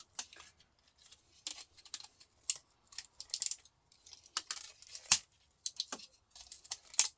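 Irregular clicks, taps and light clinks of small laptop parts being handled and pulled apart by hand, with one sharper knock about five seconds in.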